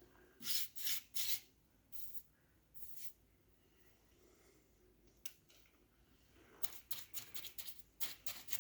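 Paintbrush strokes laying acrylic paint onto a door frame: a few soft, separate bristle swishes, a pause, then a quicker run of short strokes near the end.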